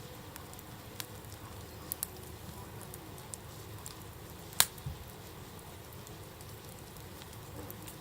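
Wood campfire burning with a low steady hiss and scattered sharp crackles, one loud pop about halfway through.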